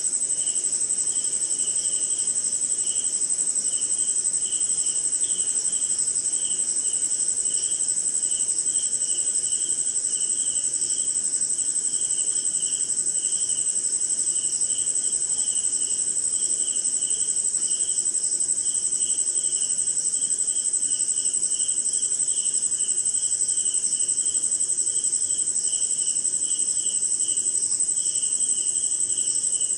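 Night chorus of crickets and other insects: one steady high-pitched trill, with a lower chirp pulsing about twice a second underneath.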